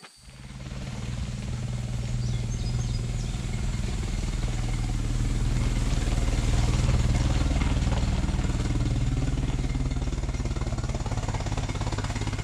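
Ford Model T's four-cylinder engine running steadily, growing louder over the first couple of seconds and then holding an even note.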